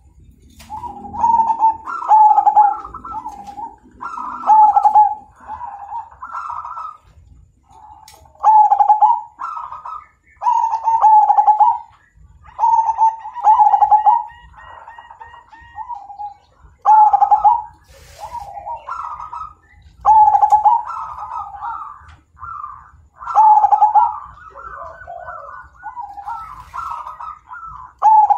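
Zebra dove (perkutut), a Majapahit-line bird, cooing loudly. Long, rolling coo phrases repeat every two to four seconds.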